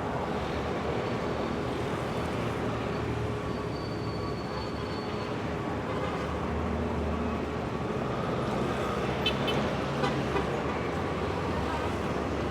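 Busy city street traffic: a steady rumble of engines and tyres from passing cars. A few sharp clicks or knocks come about nine to ten seconds in.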